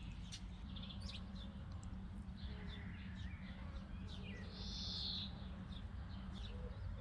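Songbirds singing and calling: many short, high chirps throughout, a soft warbling phrase about halfway through, and a louder buzzy call shortly after, over a steady low rumble.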